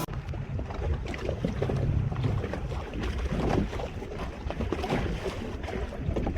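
Boat under way at sea: gusty wind buffeting the microphone over a low, uneven rumble of the hull and water.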